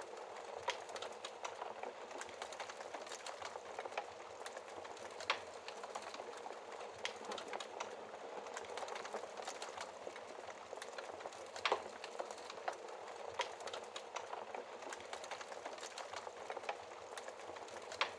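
Wood fire crackling in a fireplace: a steady bed of small crackles with sharp pops scattered through it, the loudest about five seconds in and again near twelve seconds.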